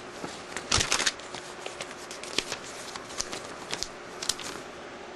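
Paper and packaging being handled: rustling with scattered light clicks and taps, loudest in a burst of rustling about a second in.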